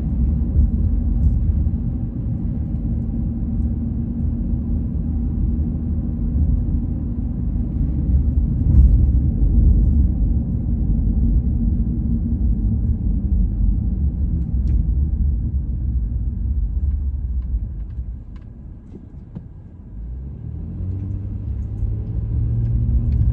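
Car driving, heard from inside the cabin: a steady low road and engine rumble. About three-quarters of the way through it drops away briefly, then the engine rises in pitch as the car picks up speed again.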